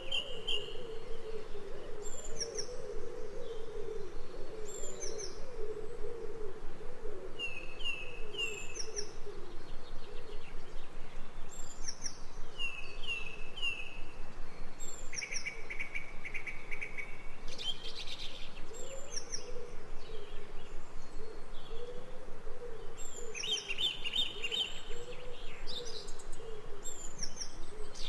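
Forest ambience of several wild birds chirping and calling, with repeated short high notes in quick groups and longer trills about midway and near the end, over a wavering low sound.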